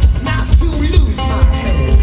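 Live band music: bass guitar heavy in the low end, with drums keeping a steady beat and other pitched instruments or voice above.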